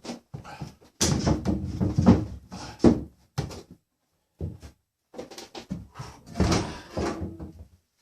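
Knocking, thudding and clattering of hard objects being handled, in two bouts: one starting about a second in, the other from about five seconds in, each with a few louder thuds.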